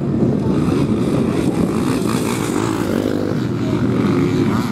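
Motocross motorcycle engines running at a race, a loud continuous sound whose pitch wavers up and down.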